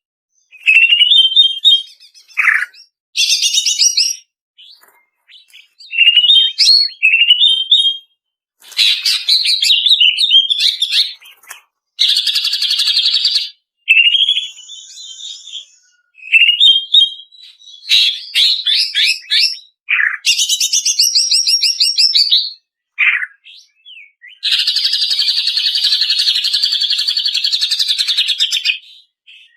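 Female cucak ijo (green leafbird) song, in separate short phrases of quick chirps and trills, with a long harsh rattle lasting about four seconds near the end. The gaps between phrases are dead silent, as in an edited masteran (bird-training) recording.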